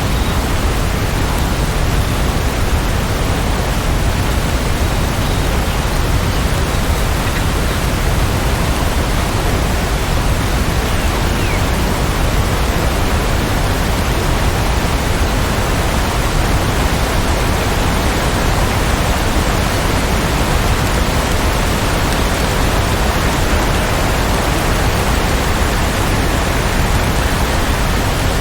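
Steady heavy rain, heard as an even, unbroken hiss with no separate drops standing out.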